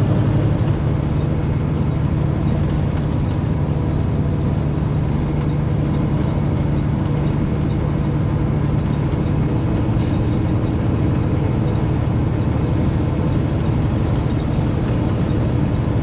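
Semi truck's diesel engine running steadily at highway cruising speed with road and tyre noise, the engine note shifting slightly about a second in.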